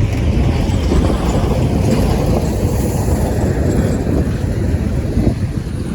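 Steady rumble of motorway traffic, with wind buffeting the microphone.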